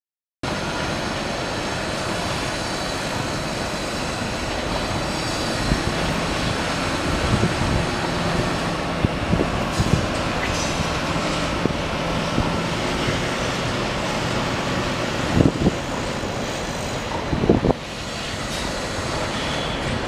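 Steady, loud mechanical din with scattered knocks and clanks, the loudest two coming a few seconds before the end.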